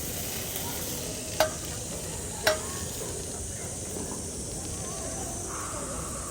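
Food sizzling and frying in a small frying pan, a steady hiss, with two sharp clicks about a second apart early on.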